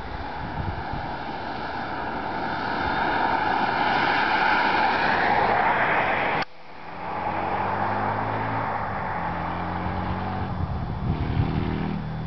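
Buell XB9S's air-cooled V-twin running through a homemade Magnaflow muffler, growing steadily louder as the motorcycle approaches. After a sudden cut about six seconds in, the engine is heard at lower revs, its pitch stepping up and down.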